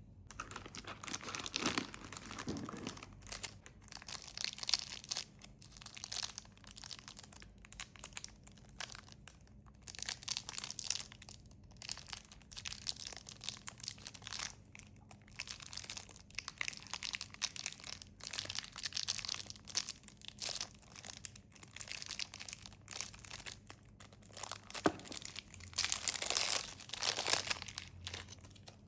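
Snack wrappers being crinkled and torn open by hand, in irregular bursts of crackling with short pauses.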